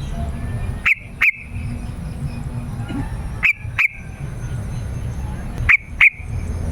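Yellow-vented bulbul calls: three quick pairs of short, sharp, falling notes, each pair coming about two and a half seconds after the last, over a steady low rumble and a high hiss.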